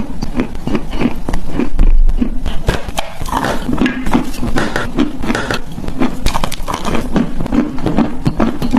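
Chalk being bitten and chewed close to the microphone: a steady run of crisp crunches and clicks, several a second, over the rhythm of chewing.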